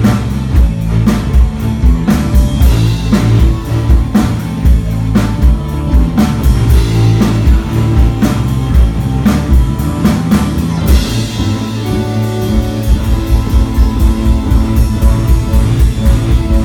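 Rock music with a drum kit and guitar playing steadily; about eleven seconds in a cymbal wash comes in and the drumming turns quicker and busier.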